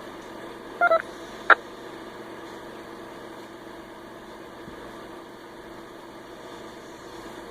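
Radio receiver open between transmissions: steady static hiss with a faint hum, broken about a second in by two short beeps and then a sharp click, like a transmission tone and key-up.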